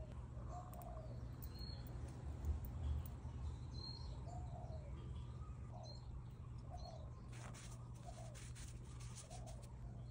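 Birds calling in the background: short, low, arched calls repeated every second or so, with a few high thin chirps. A run of soft clicks near the end, over a low steady hum.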